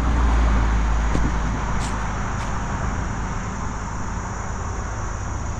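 Traffic on a four-lane highway: a steady rumble and hiss of passing vehicles, loudest at the start and slowly fading away.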